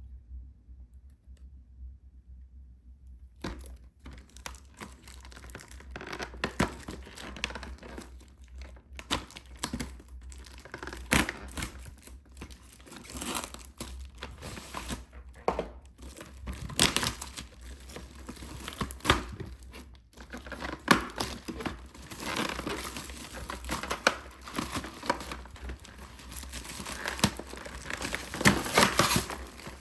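Plastic packaging crinkling and tearing as a boxed trading-card set is unwrapped, starting about three and a half seconds in after a quiet stretch, with irregular sharp crackles that get busier toward the end.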